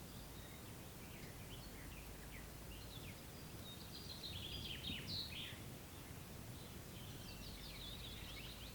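Songbirds singing quick, high chirping phrases, busiest about halfway through and again near the end, over a faint, steady low background noise.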